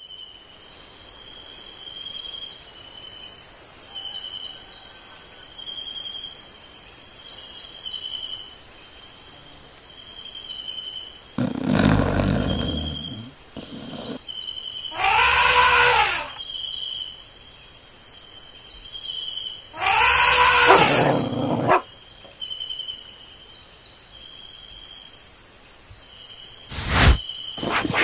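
A steady, high, pulsing insect chorus, with a shorter chirp repeating beneath it. Around the middle, a low rumble and then two loud animal calls, each about a second long and about five seconds apart, break over it, and a sharp knock comes near the end.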